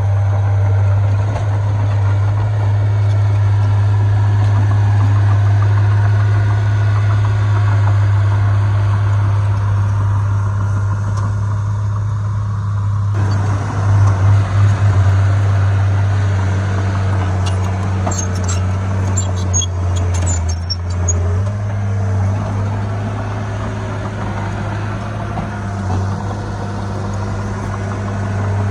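Diesel engine of heavy earthmoving machinery running steadily with a strong low drone. A little past the middle, a short flurry of high squeaks and clicks sounds over it.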